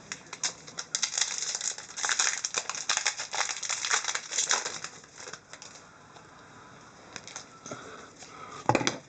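Packaging crinkling and rustling as trading cards are handled, a dense run of crackles for about four seconds, then quieter, with a short knock near the end.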